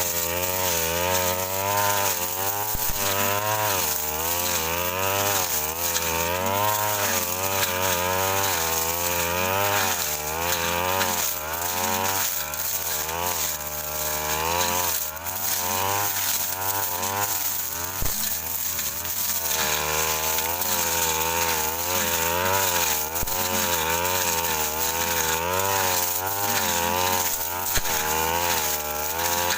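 Brush cutter engine running hard while its blade cuts through dense scrub, the engine pitch rising and falling about once a second as the load on the blade changes. A few brief knocks sound along the way.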